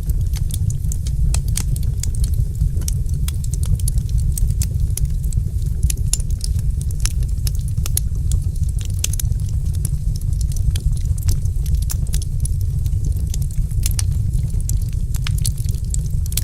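Wood fire burning in a fireplace: a steady low rumble of flames with many quick, irregular crackles and pops.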